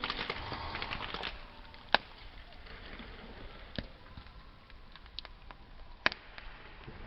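Wood fire crackling, with scattered small snaps and sharper pops about two seconds in and again near six seconds. The tail of a piano chord dies away at the very start.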